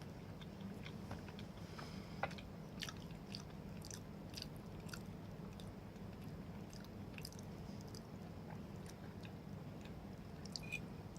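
A person chewing a mouthful of macaroni casserole, with soft, scattered wet mouth clicks over a steady low hum.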